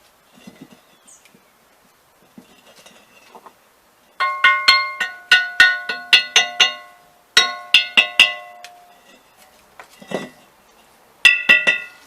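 Hammer blows on an old iron wheel recovered by magnet fishing. The metal rings at the same bell-like pitches with every strike, in three runs of rapid blows after a few faint taps. The blows are knocking the loose rust and scale off the wheel.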